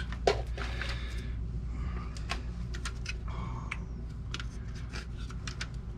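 Irregular light clicks and rattles of small screws being handled, over a steady low hum.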